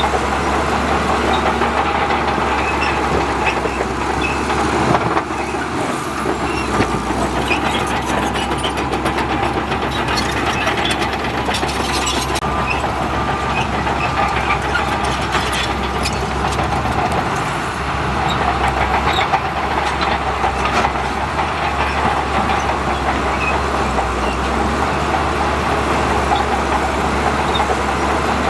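Heavy diesel earthmoving machinery running steadily at work, with scattered metallic clanks.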